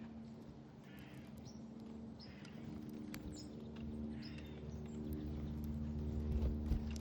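Small songbirds at a backyard feeder giving short, scattered chirps, over a steady low mechanical hum with a rumble that grows louder near the end.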